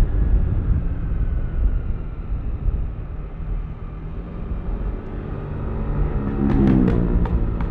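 Yamaha Aerox V3's 155 cc single-cylinder scooter engine running under way with a low rumble, easing off in the middle and picking up louder again about six seconds in. A few sharp clicks come near the end.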